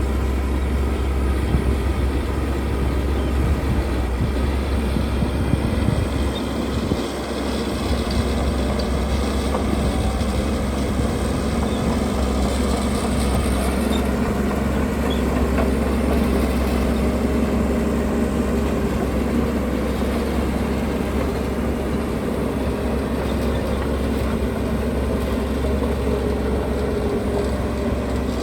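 Heavy construction machinery running steadily: a diesel engine drone that dips briefly about seven seconds in.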